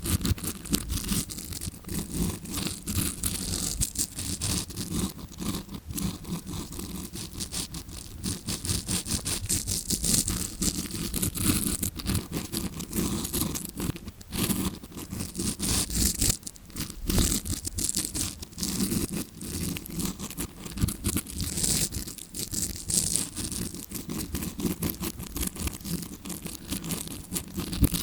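Stiff tawashi scrubbing-brush bristles rubbed and scratched right against the microphone in quick, continuous strokes, a bristly scraping meant to imitate ear cleaning heard from inside the ear. Twice there is a short lull.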